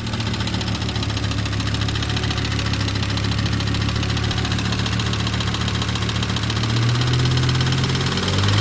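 Turbocharged five-cylinder engine of a 1997 Volvo 850R running at idle with a rapid, even ticking-knocking noise. Mechanics took the noise for rod knock. The owner suspects worn oil-sump seals that are not returning oil up to the head.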